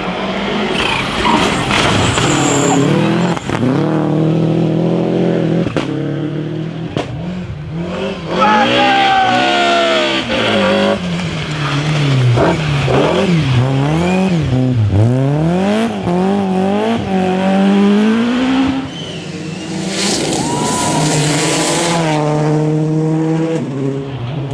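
Rally car engine revving hard, its pitch rising and falling again and again as the throttle is worked, with tyres skidding. About twenty seconds in there is a short burst of hissing noise.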